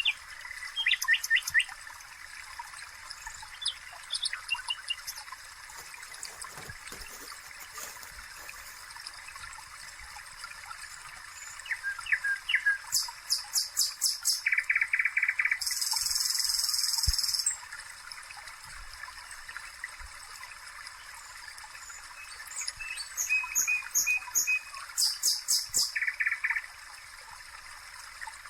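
Songbirds singing: several bursts of quick high chirps and trills, with a longer buzzy trill about midway, over a faint steady hiss.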